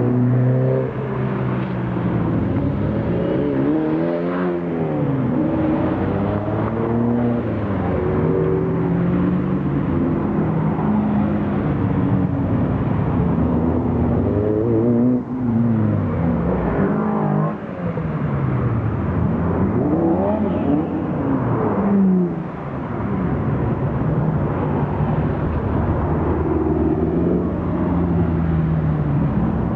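Lotus sports car engines revving and accelerating on a circuit, with cars driving past one after another; the engine pitch rises and falls as each car goes by, several times.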